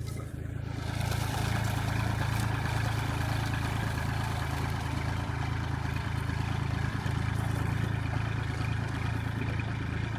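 An engine running steadily with a low hum, growing louder about a second in and then holding steady.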